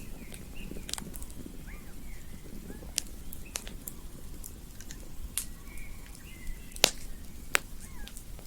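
Campfire burning with a low steady rustle and sharp crackling pops from the burning wood, about half a dozen snaps, the loudest about seven seconds in. Faint short chirps sound behind it.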